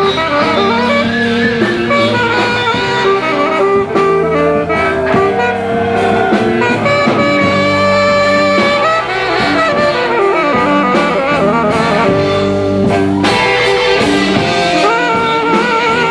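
Blues band playing live: an instrumental passage with a melodic lead line over guitar and bass, the lead note wavering with vibrato near the end.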